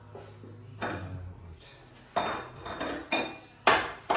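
Metal spanners and fittings clinking and clanking: about five sharp metallic knocks with brief ringing, the loudest near the end.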